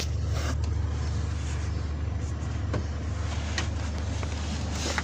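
A steady low engine hum, as of a vehicle running at idle, with a few short clicks.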